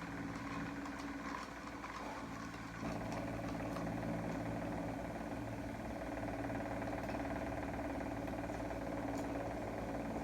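Steady mechanical hum like an idling engine, a low drone with several pitches held steady, growing fuller about three seconds in.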